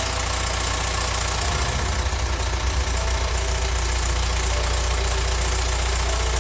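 Hyundai R-series diesel engine idling with a steady low, rapid pulsing.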